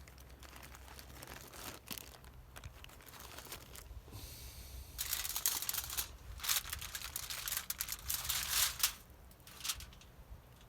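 Crinkling and rustling of packaging being handled, in irregular bursts that grow busier and louder from about halfway through.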